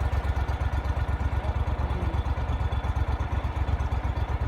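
Boat's outboard motor running steadily at low speed, a fast, even low throb.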